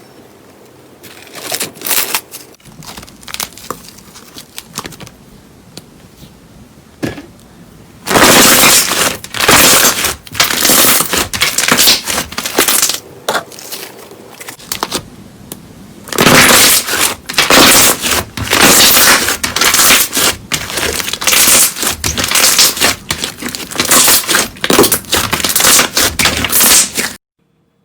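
Slime being squished and pressed, a dense run of crackling, popping clicks. It is quieter at first, turns loud about eight seconds in with a short lull a little after the middle, and cuts off abruptly near the end.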